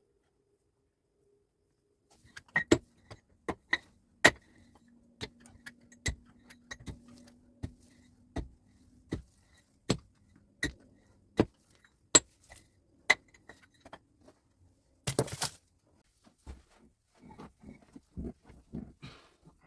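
A series of sharp knocks, one to two a second, like hard objects struck together. They are followed by a short loud scrape and then softer scraping and rustling.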